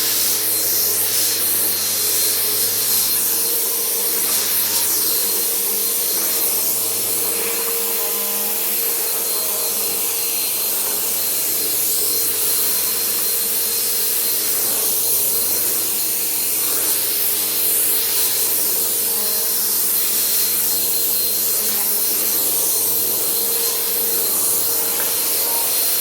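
Bissell Power Force bagged vacuum cleaner running steadily on carpet: a constant high motor whine over the hiss of rushing air.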